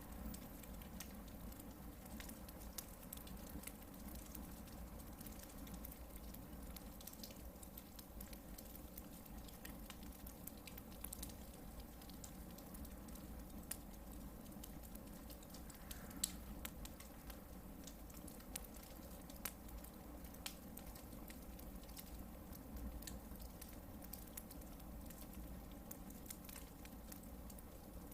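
Hardwood campfire burning: scattered small crackles and pops over a steady low rumble, with the sharpest pop about sixteen seconds in.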